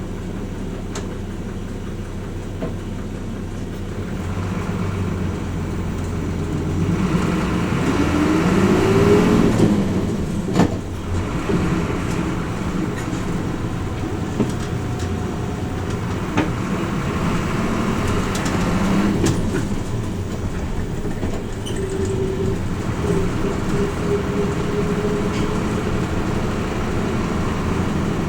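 Cabin sound of a Hino Rainbow RJ P-RJ172BA diesel route bus: the engine runs quietly at first, then builds as the bus accelerates about four seconds in, with a whine rising in pitch. A sharp knock comes about ten seconds in, then steady running, with another rising whine near the end.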